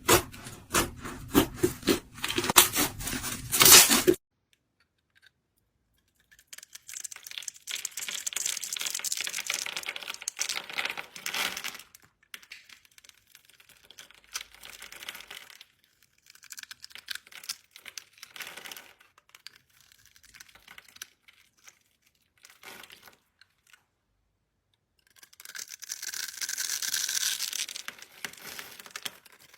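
Slime being handled by hand. For the first four seconds it gives off sharp popping clicks. After a short silence come stretches of crackling, crinkly rustling, broken by brief pauses.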